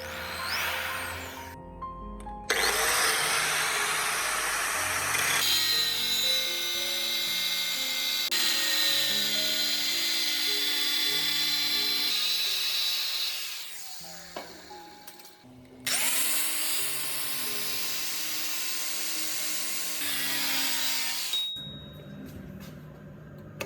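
An electric power tool running in two long stretches, about eleven seconds and then about five seconds, with a short break around the middle, over background music.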